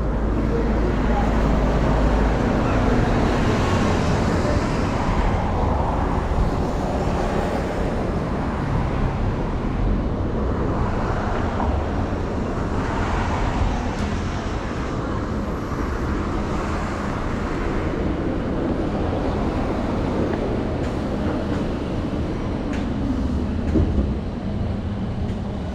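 City street ambience: a steady wash of road traffic with a low rumble, strongest in the first couple of seconds.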